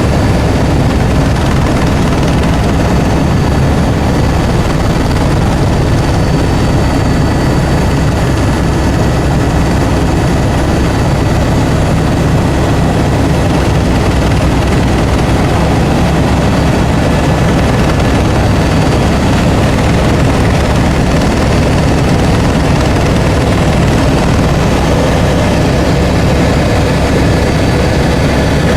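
Helicopter in flight, its engine and rotor running steadily and loudly throughout, with a fast low rotor flutter under the noise.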